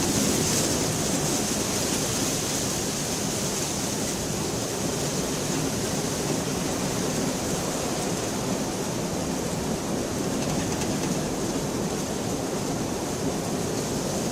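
Steady heavy rain falling, an even hiss with no thunderclaps.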